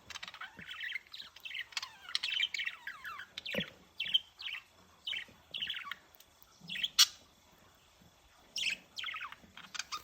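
Male budgerigar warbling its courtship song: a fast, chattering run of short chirps and squawks. A single sharp click about seven seconds in is the loudest sound, followed by a short pause before the chirping resumes.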